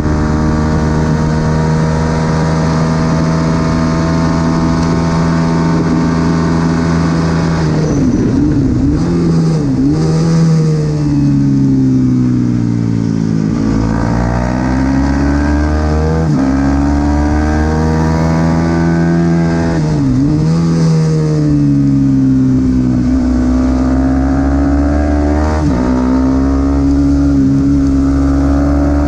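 Supersport 300 race motorcycle engine at high revs, its pitch holding, then falling as it brakes into corners and climbing again under acceleration, with sharp breaks in the note at each gearshift.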